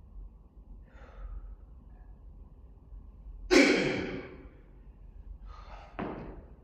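A man breathing out hard in one loud, heavy sigh about three and a half seconds in, then a second, shorter breath about two seconds later with a sharp click.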